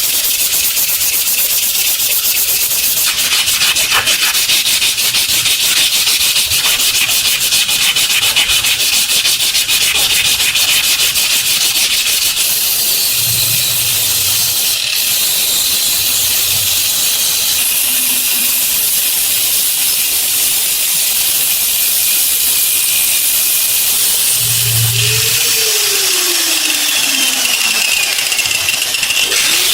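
Steady abrasive rubbing on the steel of an old pair of scissors, a loud hiss of sanding with a fast run of ticks in the first half. The texture changes abruptly a few times.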